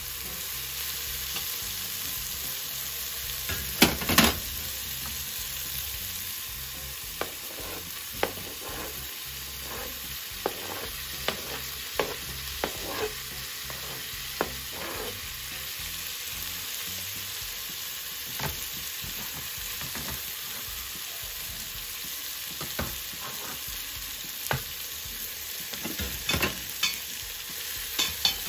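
Potatoes and tomatoes frying in a stainless steel pot with a steady sizzle, while a metal slotted spatula stirs and scrapes, clinking against the pot. The loudest clanks come in a quick cluster about four seconds in, with scattered clinks later and a few more near the end.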